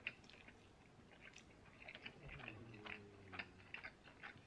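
Faint close-up chewing of a mouthful of soft spaghetti: small wet mouth clicks scattered throughout, with a brief low hum from the eater about halfway through.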